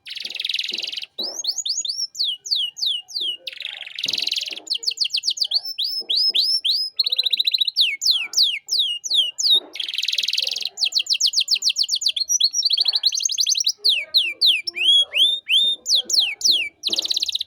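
Canary singing a long, varied song: runs of clear falling whistled notes and fast trills, broken four times by harsh buzzy rattles about a second long.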